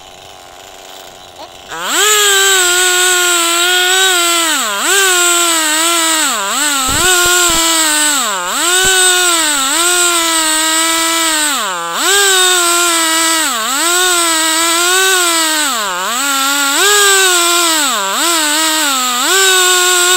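Two-stroke chainsaw in a chainsaw mill, throttled up about two seconds in and cutting through a log at full throttle, its pitch dipping sharply and recovering again and again as the chain bogs under load.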